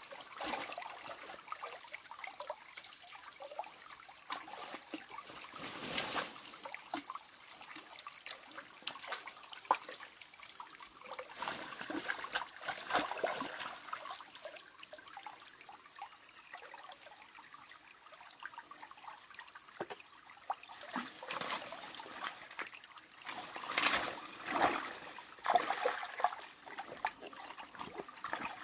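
Water trickling and splashing unevenly, with scattered louder splashes or knocks.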